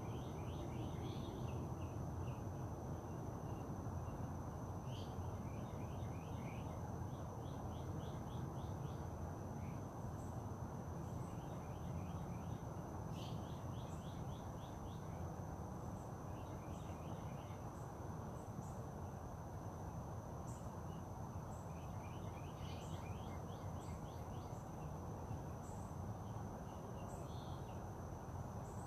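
Wild birds calling in repeated quick trills of short notes every few seconds, with scattered high chirps, over a constant thin high-pitched tone and steady background noise.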